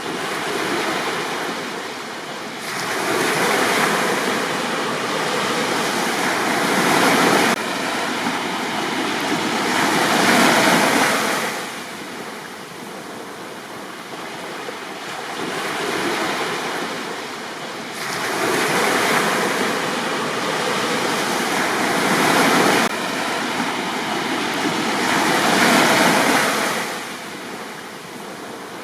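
Ocean waves breaking and washing up a beach: surges of surf swelling and fading every few seconds, with quieter lulls between.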